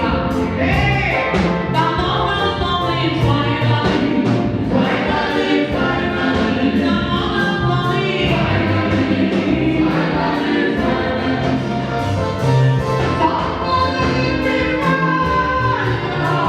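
Gospel choir singing over instrumental backing music.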